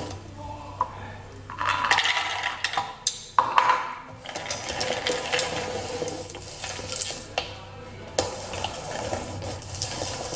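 Kitchen clatter: dishes and utensils knocking together in a burst of sharp knocks, followed by a steady hiss with scattered clicks.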